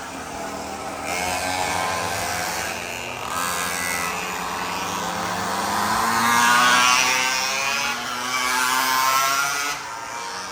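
Several 49cc mini bike engines running and revving, their pitch rising and falling as the bikes pass, loudest about six to seven seconds in.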